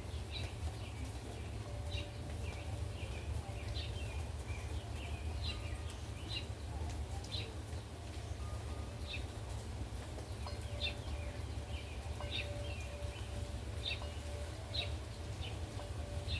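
Gusty wind rumbling on the microphone, with a bird chirping over it in short, repeated high calls every half second or so.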